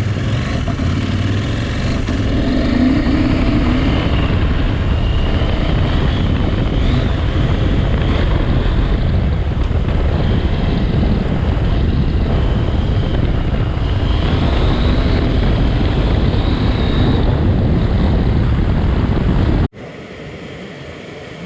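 Adventure motorcycle running steadily under way, a loud, dense engine-and-rushing drone with a slightly wavering pitch. It drops off abruptly to a much quieter hum about two seconds before the end.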